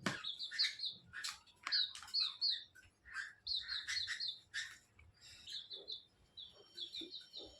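Cage birds chirping: quick runs of three to five short high notes, repeated every second or so, with a few short sharp sounds in between.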